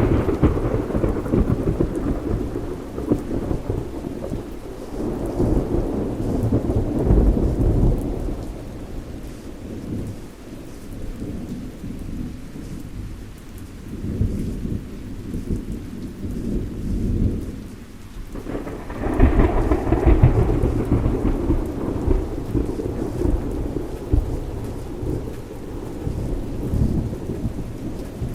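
Thunderstorm: steady rain with rolling thunder rumbling in repeated swells, and a louder peal of thunder breaking suddenly about two-thirds of the way through.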